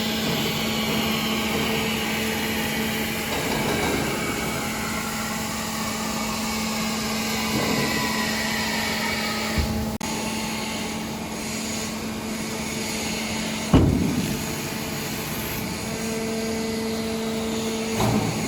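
Hydraulic power unit of a 160-ton horizontal metal baler running with a steady hum while the push plate compresses scrap metal. Two sharp bangs come in the second half, the louder one about three quarters of the way through.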